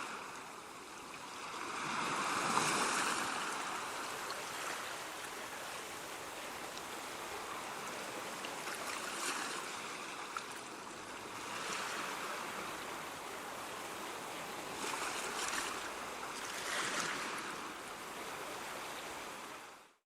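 Sea waves breaking on a shore: a steady wash of surf with several louder swells, the biggest about two to three seconds in, fading out right at the end.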